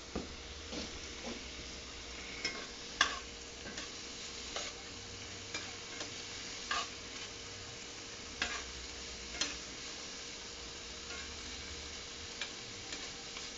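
Chicken, broccoli and cauliflower sizzling in a small frying pan while being stirred, with a dozen or so irregular knocks of the utensil against the pan, the loudest about three seconds in.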